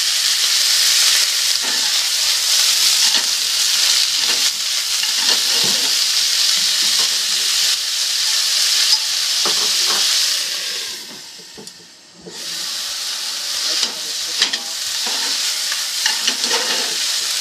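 Chicken thigh, Japanese leeks and shishito peppers sizzling in oil in a frying pan, stirred with chopsticks and tossed, with light clicks and knocks against the pan. The sizzle drops away for about a second, roughly eleven seconds in, then comes back.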